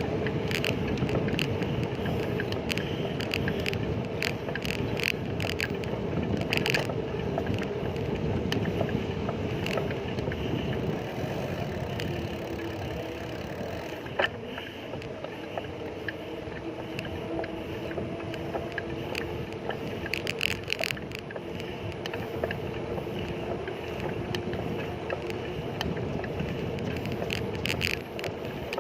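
Riding noise from a bicycle on the road: wind buffeting the microphone and a steady rush of tyre and traffic noise under a wavering drone, with scattered clicks and rattles and one sharp click about halfway through.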